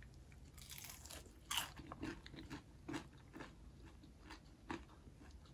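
A person biting into and chewing crispy fried tofu: faint, irregular crunches.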